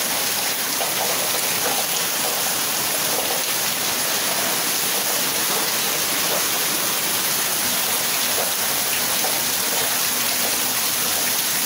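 Heavy downpour of rain falling steadily, splashing into standing water on a flooded yard and onto plastic water tanks.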